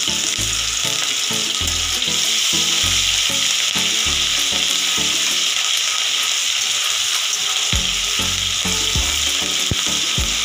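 Crushed ginger frying in hot mustard oil in a kadai, a steady sizzle, stirred with a spatula.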